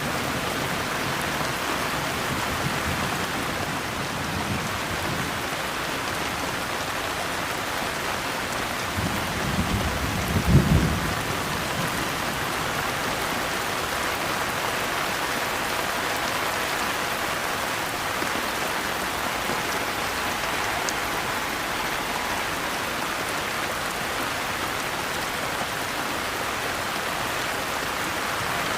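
Steady rain falling, with a low rumble of thunder building and peaking about ten seconds in.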